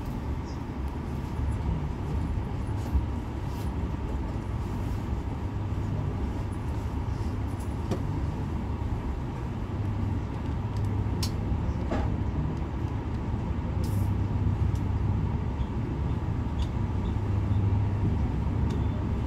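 Steady low rumble inside a V2N double-deck passenger coach as the train pulls slowly away from the station, growing a little louder in the second half, with a few faint clicks.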